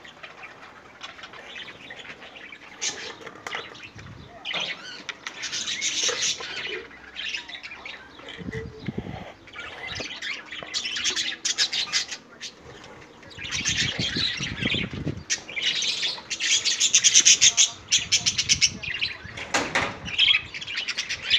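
Budgerigars chirping and chattering in repeated bursts, with wings flapping.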